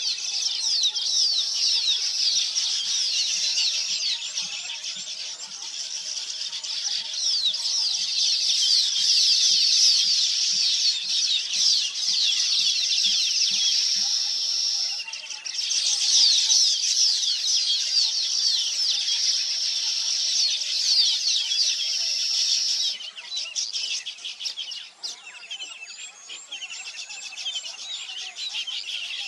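Dense chorus of many small birds chirping and twittering at once, a continuous overlapping chatter of short high calls. It breaks off abruptly about halfway through and resumes, then turns somewhat quieter for the last few seconds.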